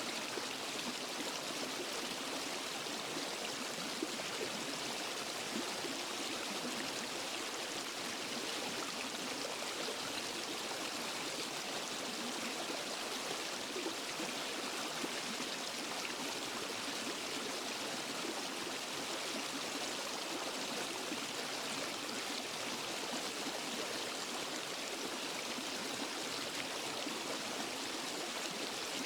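Waterfall and forest stream water rushing and splashing over rocks: a steady, even hiss of running water that does not change.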